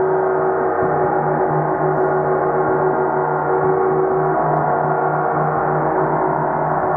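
A 30-inch (75 cm) Earth Element symphonic gong ringing in a steady, sustained wash of many overtones, with a low tone that pulses and warbles beneath a stronger ringing tone.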